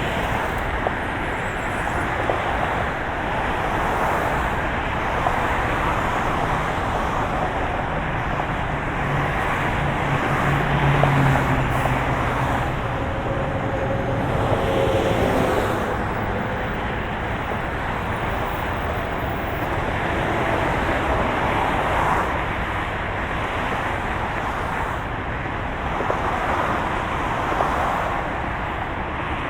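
Steady road and engine noise of a moving car, an even rushing hum that holds at one level, with a low hum swelling briefly about ten seconds in.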